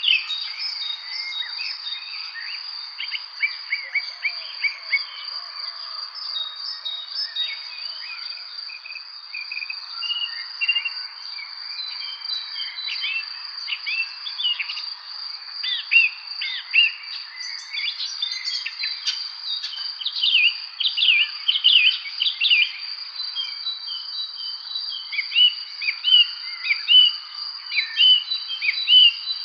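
Evening spring birdsong: many birds giving short, quick chirps and whistles, busier in the second half, over a continuous high-pitched steady trill.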